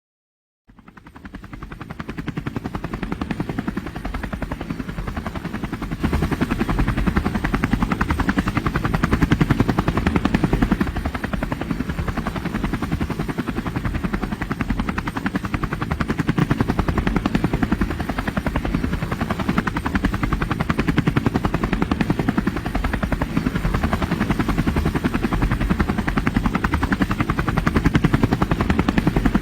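Rotor beating and engine noise of a group of helicopters in flight: a steady, rapid chop that fades in about a second in and grows louder around six seconds in.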